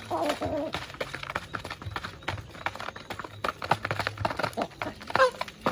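Chickens clucking, with a short rising call about five seconds in, over a steady run of quick clicks and taps.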